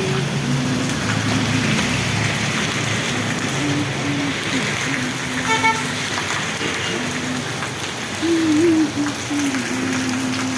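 Steady rain falling, with street traffic going by and a short vehicle horn toot about halfway through.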